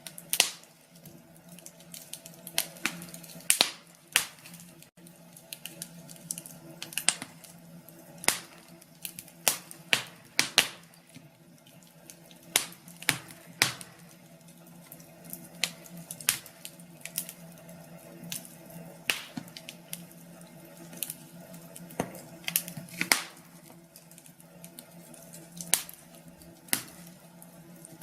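Wood fire in a fireplace crackling, with irregular sharp pops and snaps, a few each second, over a faint steady hum.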